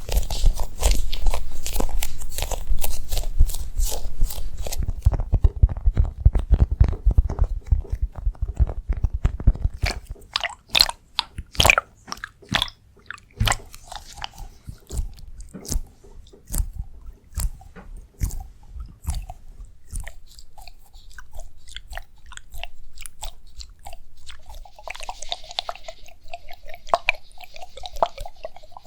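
Close-miked ASMR trigger sounds: dense crackly rubbing and clicking with a low rumble for about the first ten seconds, then scattered single sharp clicks and taps, turning near the end into a softer squishy, fizzing texture.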